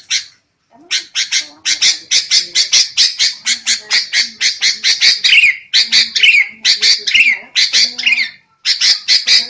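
Sooty-headed bulbuls (kutilang) giving agitated, harsh chattering calls in a rapid run of about four to five notes a second, with falling whistled notes mixed in from about halfway. This is the noisy 'ribut' chatter used as a lure call to draw in wild bulbuls.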